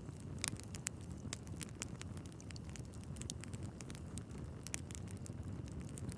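Log fire crackling: irregular sharp pops and snaps over a steady low rumble of the flames, with a louder pop about half a second in and another near the end.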